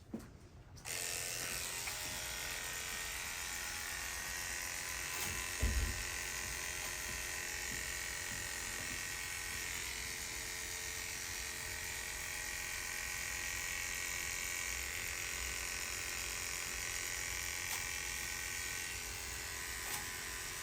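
Electric hair clipper running steadily as it shaves a patient's scalp, switching on about a second in. A brief low thump comes about six seconds in.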